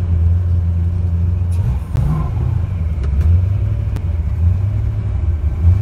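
Twin-turbo Windsor V8 in a Fox-body Mustang running with a steady low rumble, which wavers briefly about two seconds in.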